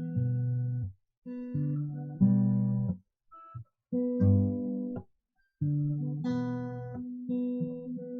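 Acoustic guitar playing a song's intro: about five chords struck and left to ring, with short silent breaks between some of them.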